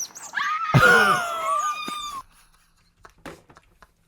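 A high-pitched scream lasting about two seconds, wavering and bending in pitch, then breaking off.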